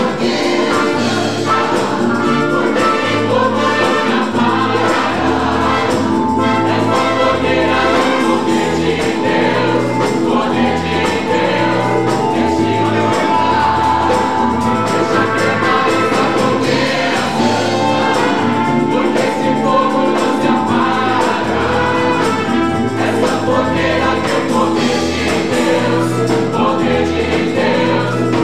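Gospel choir singing over a band, with a bass line moving from note to note beneath held sung notes.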